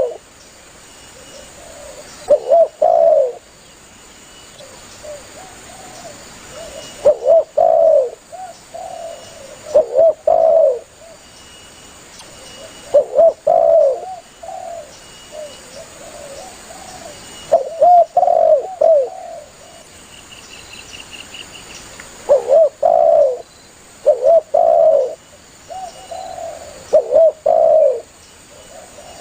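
Spotted dove (tekukur) cooing: phrases of a few low, rounded coo notes, repeated every few seconds as an advertising call.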